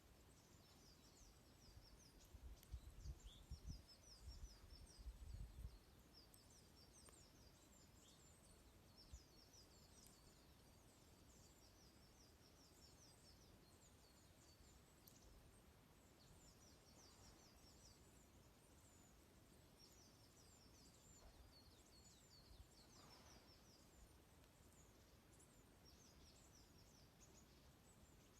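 A flock of small birds twittering, with many short, high chirps following one another almost without a break. A brief low rumble comes a few seconds in.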